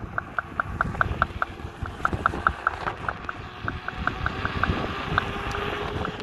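Kingsong S22 electric unicycle hub motor knocking as the wheel turns: rapid, even clicks about five a second, coming in runs with brief pauses, over low wind and road noise. The owner traced the knock to a loose fit between the hub and the bearing on one side of the motor.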